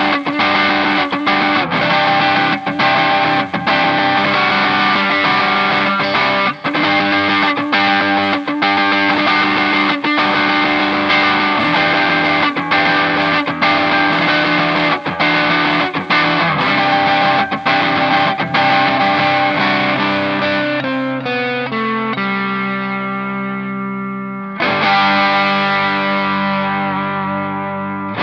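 Clifton Alnico Stratocaster electric guitar played through distortion, strumming chords in a steady rhythm. About twenty seconds in, it slows to a few separate chords. A last chord struck near the end is left to ring.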